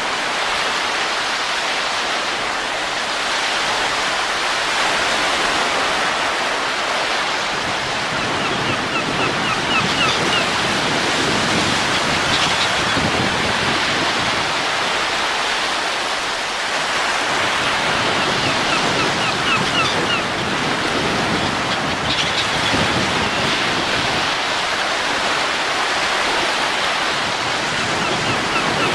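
Steady rushing wind that swells and eases slowly in soft gusts.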